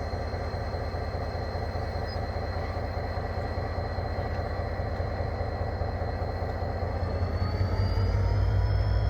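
Diesel-electric locomotive engine running steadily with a low rumble. About seven seconds in, its pitch rises and it grows louder as the engine throttles up.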